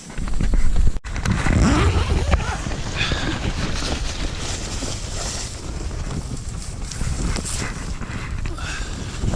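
Strong gusty wind buffeting the microphone with a dense, low rumble. It cuts out for an instant about a second in.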